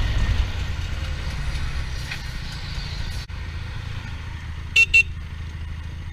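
Kawasaki 250 cc motorcycle engine running under way, its low rumble gradually getting quieter, with two short horn toots in quick succession near the end.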